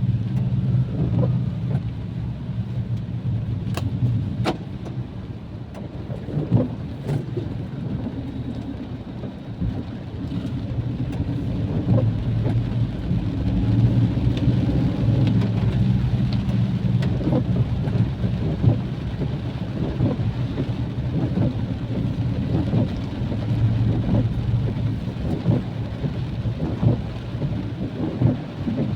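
Heavy rain pouring down, a dense patter of drops over a steady low rumble.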